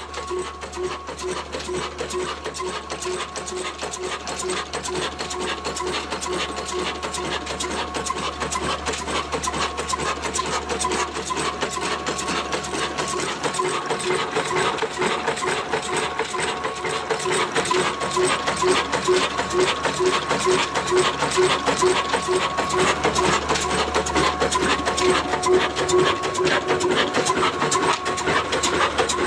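22 hp Ruston-type 'kala desi' diesel engine running steadily with a fast, even mechanical clatter that grows slightly louder.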